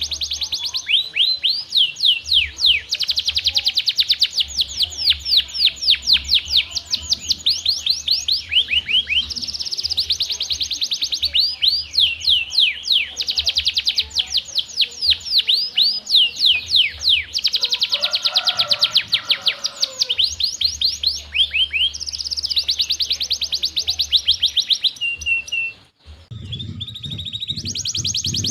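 Domestic canary singing a long, continuous song of rapid falling trills and chirps, with short pauses between phrases. The song breaks off briefly near the end.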